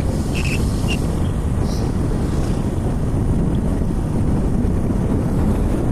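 Steady wind rush on the microphone of a moving motorcycle, with the bike's running and road noise underneath.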